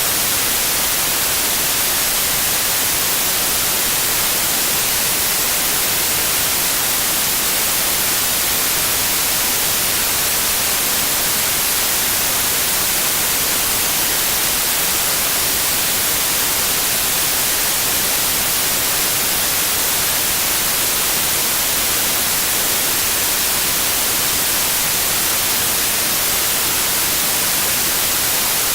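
Steady white noise, an even, unchanging hiss strongest in the high end.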